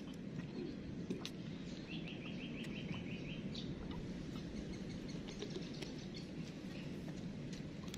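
A bird calls a quick run of about nine chirps, rather under two seconds long, starting about two seconds in, over a steady low rush of outdoor background noise on a beach.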